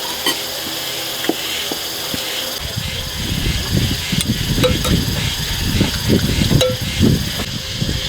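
Light clicks of chopsticks and bowls during a meal, over a steady hiss. A rough, uneven low rumble comes in about two and a half seconds in.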